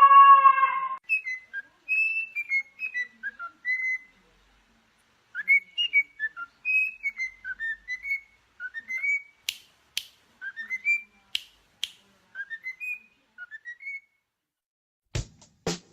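A parrot whistling a tune in short, sliding high notes, in three phrases with brief pauses between, after a loud held call in the first second. A few sharp clicks fall in the middle, and music with a strong beat starts near the end.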